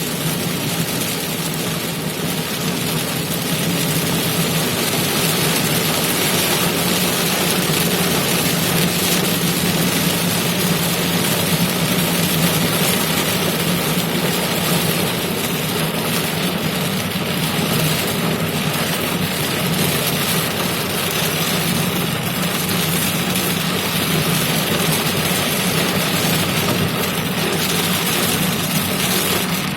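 Steady rain, an even hiss with no pauses, over a constant low hum.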